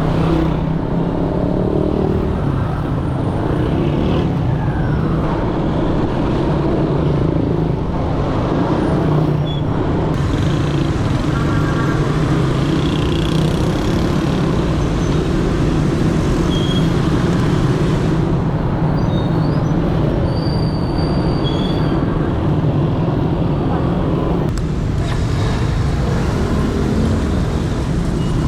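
Dense motorbike street traffic: many motorcycle engines running steadily at close range, heard from a motorcycle riding among them, with a few brief pitched sounds along the way.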